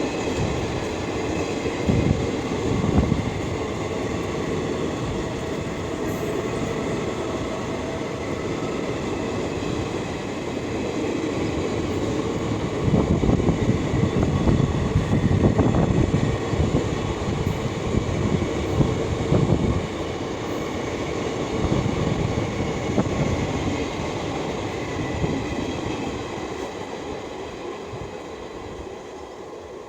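A train running past on the track, its wheels rumbling and clattering over the rails, with bursts of louder knocks. It fades over the last few seconds.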